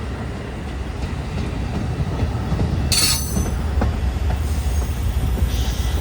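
Amtrak Hiawatha Service passenger train rolling past, its deep rumble growing louder. A brief high wheel squeal comes about three seconds in.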